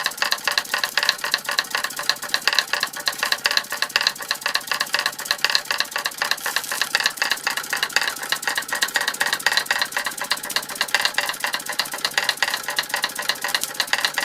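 Toy steam engine, a 1905 Fritz Neumeier, running under steam and driving model Martinet steam hammers: a rapid, even clatter of small metal taps.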